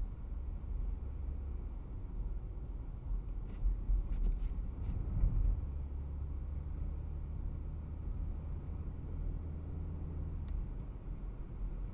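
A car driving, heard as a steady low rumble of engine and tyres, with a few faint ticks.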